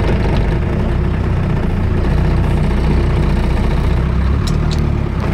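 A vehicle engine running steadily at low revs, a continuous low rumble.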